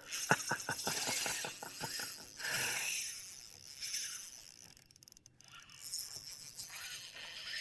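Spinning reel's drag clicking in a quick run of ratchet-like ticks that spread out over about two seconds as line is pulled off, the sign of a hooked redfish running.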